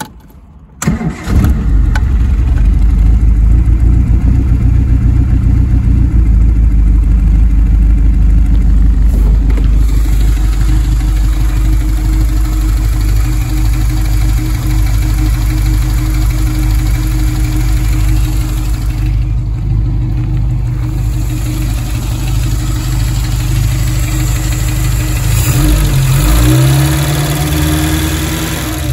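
1963 Triumph TR4's four-cylinder engine started from cold: a brief crank on the starter about a second in, it catches at once and settles into a steady, loud idle. Near the end the throttle is blipped and the revs rise and fall briefly.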